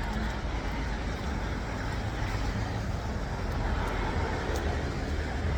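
Steady low rumbling background noise with an even hiss and a few faint clicks, of the kind heard from road traffic.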